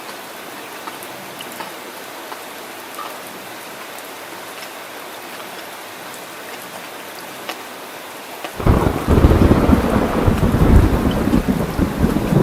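Heavy rain falling steadily, with scattered drops ticking. About eight and a half seconds in, a loud rumble of thunder starts abruptly and rolls on under the rain.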